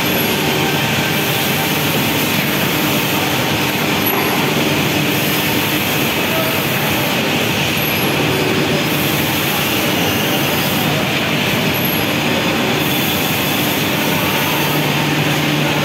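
Steady, loud machinery noise from automated CNC machining equipment, with a faint high chirp repeating about every four seconds.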